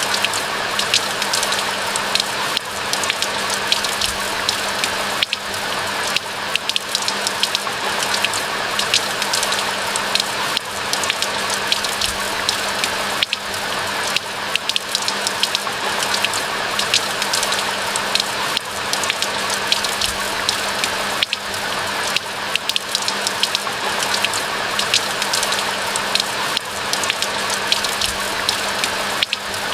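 Steady rain falling, with a constant hiss and many close individual drops hitting. A faint steady low hum runs underneath.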